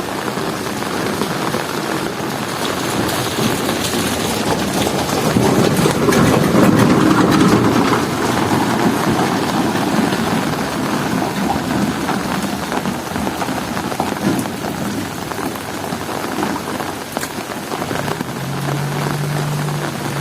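Heavy rain falling steadily, with a low rumble of thunder swelling about six to eight seconds in. A low steady hum joins near the end.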